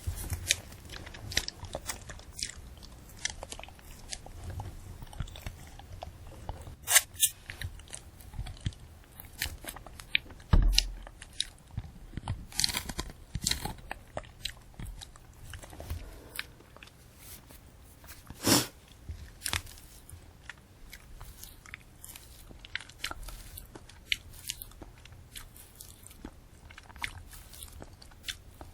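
Close-miked biting and chewing of a candy apple: the hard red sugar shell cracks and the crisp apple crunches. Crunches come at irregular intervals, with the sharpest bites about 7 and 18 seconds in.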